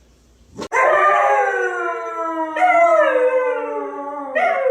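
A dog howling: three long, drawn-out howls one after another, each sliding down in pitch, starting suddenly under a second in.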